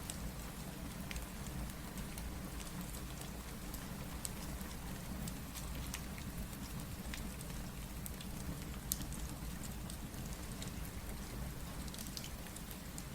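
Steady, even rain with a low rumble underneath, mixed with a fireplace's scattered small crackles and pops, one sharper pop about nine seconds in.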